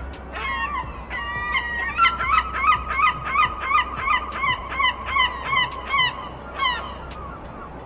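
A large bird giving honking calls: two drawn-out calls, then a rapid run of short honks at about three a second that stops near the end.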